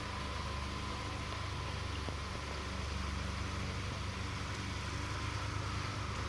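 Boat motor running steadily at an even speed, with a thin steady whine above its low hum.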